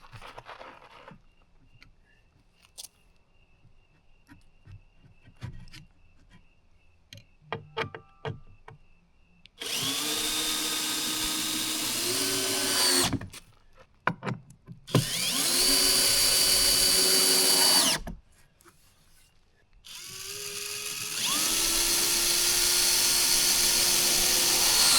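Power drill running in three spells of a few seconds each, driving screws into the wooden dolly frame; each time the motor spins up with a rising whine and then holds steady. Before that, light knocks and clicks of handling the wood.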